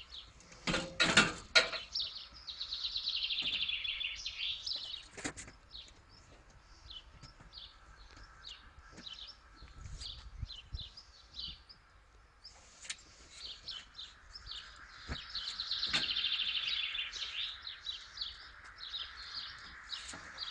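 Small songbirds chirping throughout, with a long rapid trilled song twice, a few seconds in and again about two-thirds of the way through. A few sharp knocks about a second in are the loudest sounds.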